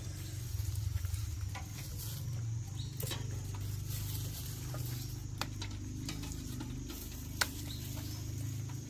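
Wood campfire crackling, with scattered sharp pops over a low steady rumble, and light rain pattering.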